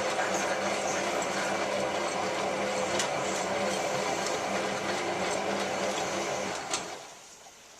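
Hotpoint 9534A washing machine running a wash tumble: the drum motor hums steadily, then a click about seven seconds in and the motor stops, leaving a much quieter background.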